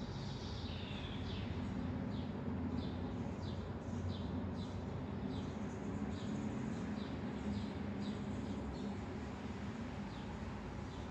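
A small bird chirping over and over, short falling chirps about one and a half a second that stop near the end, over a steady low rumble.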